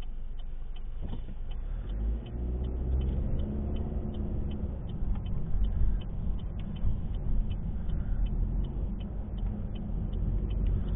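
Car engine and road noise heard from inside the cabin while driving: a low rumble that grows louder about two seconds in, with the engine note rising as the car picks up speed.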